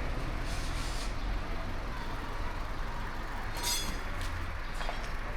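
Steady outdoor rumble and hiss, heaviest in the low end, with a faint click or rattle near the end.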